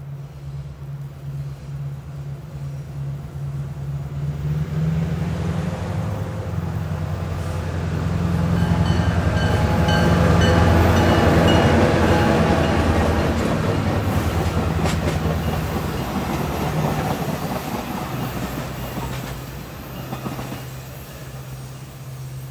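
A pair of EMD FP9A diesel locomotives pulling a passenger train pass close by. The engines' low drone builds and is loudest about ten seconds in, then gives way to the wheels clattering over the rails as the passenger cars roll past, fading near the end.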